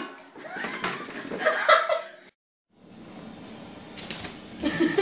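A sudden knock as a startled cat leaps away, then high-pitched voices rising and falling for a second or two. After a brief dropout, more voices and a knock come near the end as a second cat jumps away.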